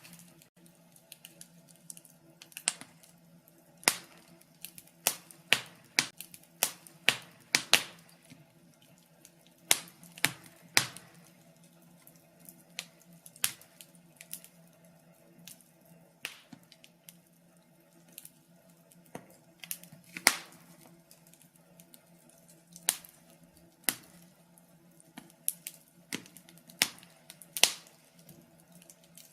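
Wood fire in a fireplace crackling: irregular sharp pops and snaps of varying loudness, some close together, others a second or two apart.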